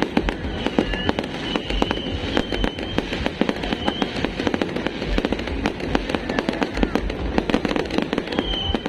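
Aerial fireworks going off in rapid succession: a dense run of bangs and crackling bursts with no pause, and a few short high whistles. Crowd voices murmur underneath.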